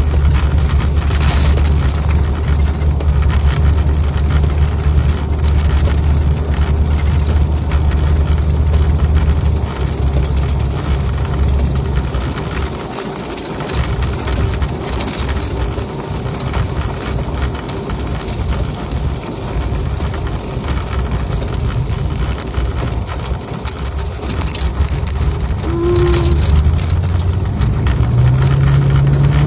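Vehicle engine humming steadily, heard from inside the cab, for about the first ten seconds, then dropping away to leave a steady rush of rain and wind on the vehicle; near the end the engine rises in pitch again as the vehicle moves off.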